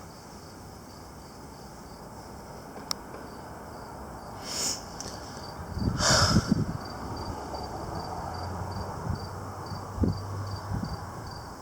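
Crickets chirping in a steady, evenly pulsing trill. Two short breathy or rustling noises come about four and a half and six seconds in, the second one the loudest.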